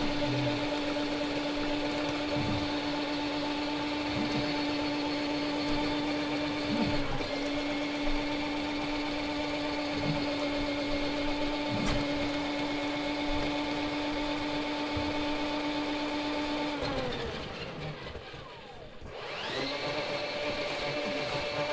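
Electric drain-cleaning cable machine running with a steady motor hum. About seventeen seconds in the motor winds down almost to a stop, then starts again and spins back up to the same steady pitch.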